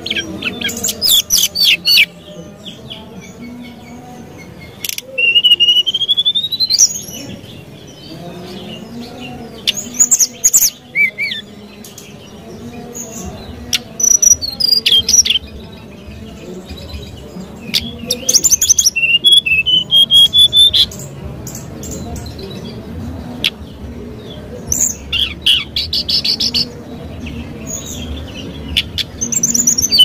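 Brown-chested jungle flycatcher singing: short phrases of rapid high trills and clear whistles every few seconds, one of them a rising whistle about five seconds in.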